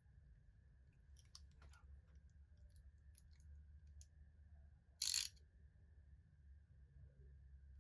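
Quiet workbench sounds: faint scattered clicks and taps over a low steady hum and a faint high whine, with one short, louder hiss-like burst about five seconds in.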